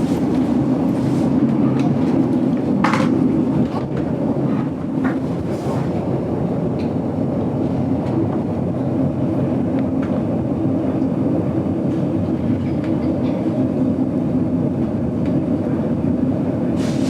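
GoldenPass Belle Époque vintage carriage running along the track, heard from inside: a steady low rumble from the wheels and rails with a few short sharp clicks, easing slightly about four seconds in.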